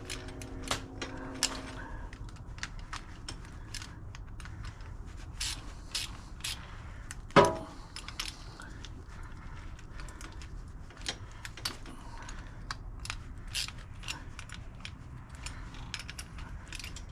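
Hand ratchet wrench clicking in short runs as bolts are tightened on the plow's winch cable, with one louder metallic knock about seven seconds in.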